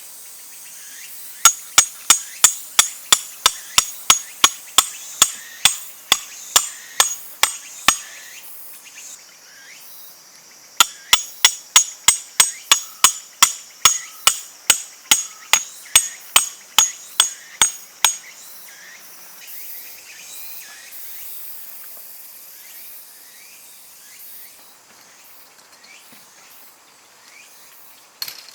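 Rapid sharp metallic strikes with a bright ring, about three a second, in two runs of roughly seven seconds with a short pause between.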